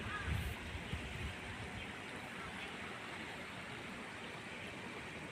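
Steady hissing outdoor background noise, with a low rumble in the first second and the last of a run of short, repeated bird calls right at the start.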